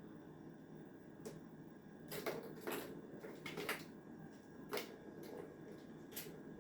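Scattered light clicks and short rustles, about half a dozen brief bursts over a steady low hum, from a kitten at play.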